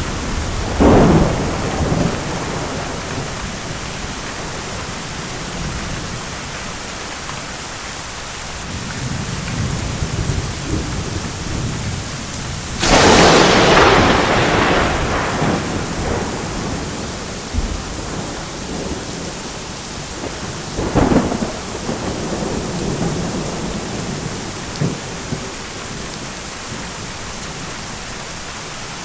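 Steady rain with thunder: a sharp crack about a second in, low rumbling, a loud crash about halfway through that fades over a couple of seconds, and another crack about two-thirds of the way in.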